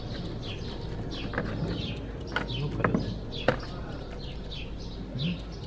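A bird chirping over and over in short falling notes, several a second, with a few sharp clicks and knocks from hand work on metal parts.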